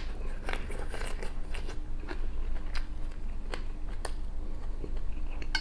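A mouthful of raw onion being chewed, heard as a string of irregular crisp crunches and clicks.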